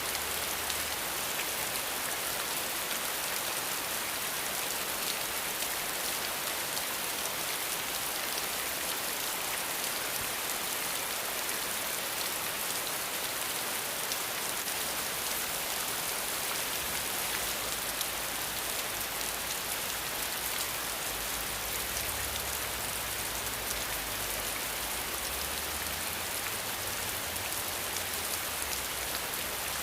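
Steady rain falling: an even, dense hiss of many drops on surfaces. A faint low rumble comes in underneath during the second half.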